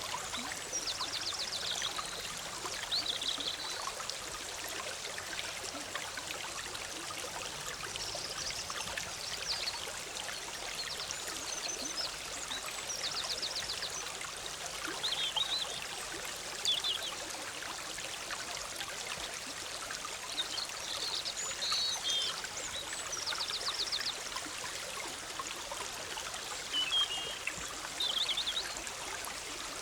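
Bubbling forest stream flowing steadily, with small birds singing short, high phrases and trills every few seconds above it.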